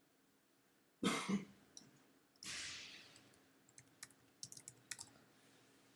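A man coughs, a quick double cough about a second in, then gives a breathy rush of air. Near the end comes a short run of sharp computer mouse clicks.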